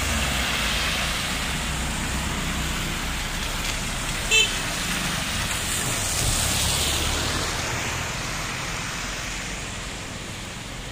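Street traffic on a rain-wet road: a steady hiss of cars passing, one swelling by about six seconds in, with a short car horn toot about four seconds in.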